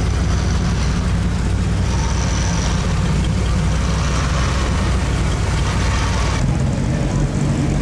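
A vintage hot rod sedan's engine running low and steady as it crawls past close by, with other cruising cars' engines behind it. About six and a half seconds in the hiss above it drops away and the low tone shifts as the car goes by.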